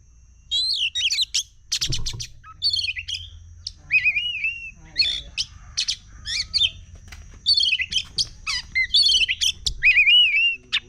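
Oriental magpie-robin (kacer) singing a fast, varied song of whistles, slurred notes and harsh chattering phrases, starting about half a second in. A steady thin high tone runs underneath.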